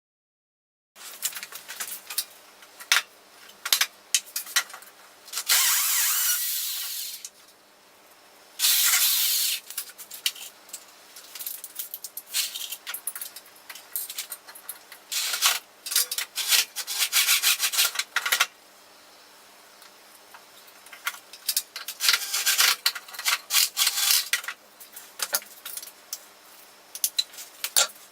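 Hand woodworking on small pieces of old wood: several bursts of scraping, sawing or rasping, each a second or more long, with clicks and knocks of wood and tools being handled between them.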